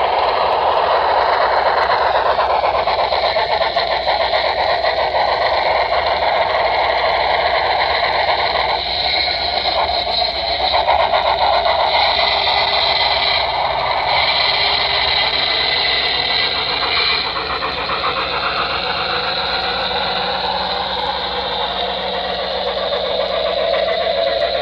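Model Norfolk & Western Y6 steam locomotive running along the layout track, giving a steady mechanical whir of motor and wheels on rail, with a wandering whine that shifts in pitch.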